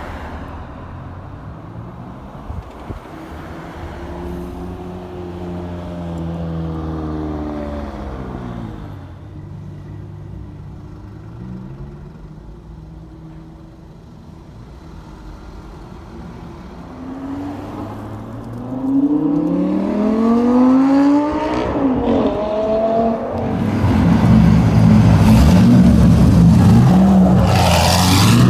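Supercar engines running in traffic: an engine note swells and falls about five seconds in, then from about seventeen seconds in a car accelerates hard with the pitch climbing and dropping at a gear change, and the engine noise is loudest in the last few seconds.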